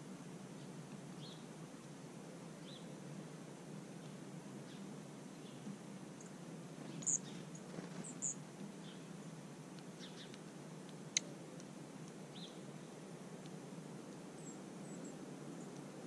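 Birds chirping faintly over a steady low outdoor hiss: scattered short chirps, with a few louder, sharper high calls about halfway through and a single sharp tick a little later.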